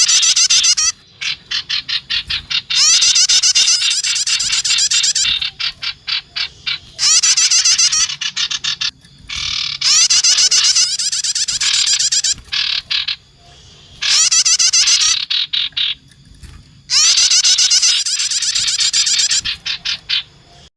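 Bird-lure recording of small songbirds, sirtu and prenjak tamu. Loud one- to two-second bursts of rapid, high, buzzy chattering repeat every few seconds, with runs of sharp ticking calls between them.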